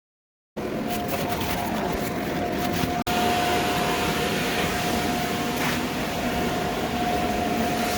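Electric inflator blower of an inflatable paint booth running steadily, a constant rushing of air with a steady hum, as it fills the booth.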